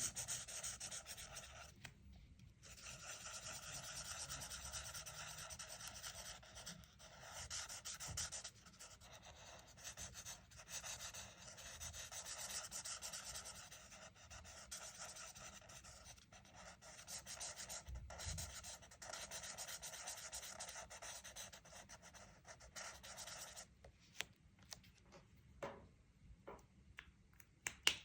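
Colouring strokes rubbed back and forth on a colouring-book page: a faint, steady scratching with short breaks. It stops a few seconds before the end, leaving a few light taps.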